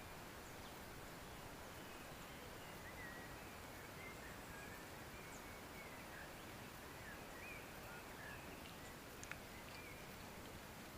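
Faint outdoor ambience: a steady hiss with scattered short, high bird chirps in the distance, and a single sharp click about nine seconds in.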